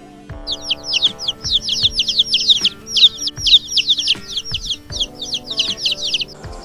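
A bird chirping rapidly, several high, downward-sliding chirps a second, over background music with a steady beat; the chirping stops just before the end.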